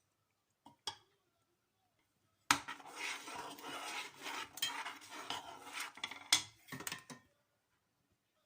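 A spoon clinking and scraping against a dish as something is stirred, with a couple of light clicks about a second in and then about five seconds of steady clattering.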